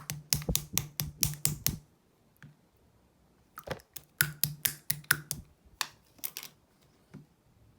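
Clear jelly slime being squeezed and pressed, giving quick runs of sharp clicks and pops. There are about four a second for the first two seconds, a pause, then another run from about three and a half seconds in.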